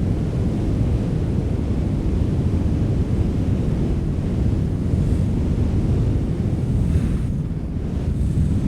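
Strong wind blowing, a steady low rumble with faint higher hissing gusts now and then.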